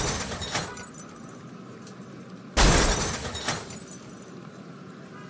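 Two cartoon smash sound effects, crashes of breaking glass about two and a half seconds apart, each dying away within about a second.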